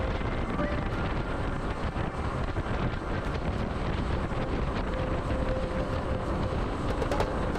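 Wind rushing and buffeting over the microphone of a moving motorcycle, mixed with the running of the Suzuki DR125S's single-cylinder engine.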